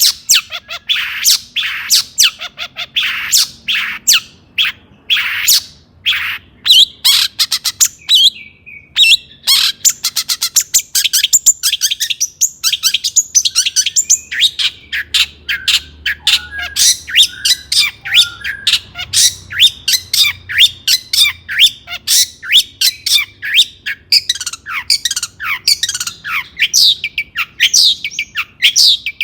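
Long-tailed shrike (cendet) singing in full voice: a fast, dense run of short, sharp, harsh chattering notes, many a second, with a brief pause about eight seconds in.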